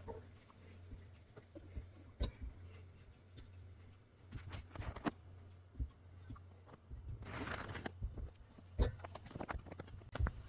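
Scattered light clicks and knocks of metal engine parts being handled during assembly, over a steady low hum.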